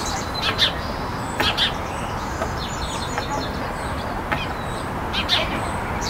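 Small songbirds chirping: short, high chirps scattered through, a couple of them in quick pairs, with a brief rapid trill about halfway, over a steady low background rumble.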